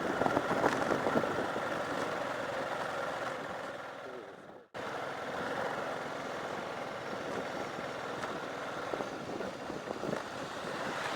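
Motorcycle riding on a gravel dirt road: engine running with wind and tyre noise. The sound fades and breaks off sharply about four and a half seconds in, then carries on the same way.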